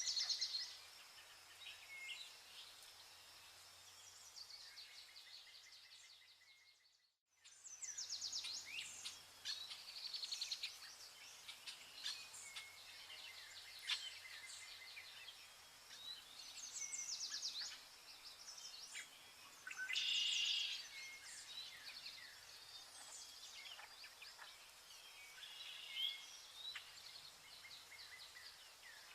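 Vernal hanging parrots twittering, with many short, high chirps and quick rattling trills repeated throughout. A louder burst of calls comes about two-thirds of the way through. The sound cuts out briefly about a quarter of the way in.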